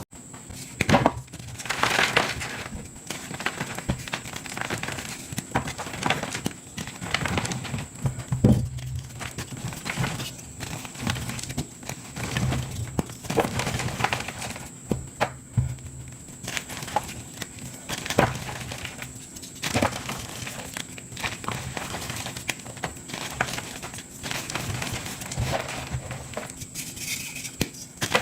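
Blocks of gym chalk being crushed and crumbled: irregular crunches and soft crumbling, with sharper cracks now and then.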